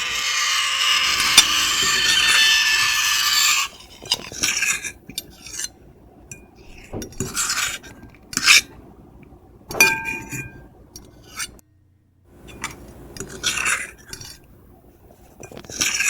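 Metal fork and knife scraping and clinking on a plate. A continuous shrill scrape runs for the first three and a half seconds and cuts off sharply; after that come short scrapes and clinks every second or two.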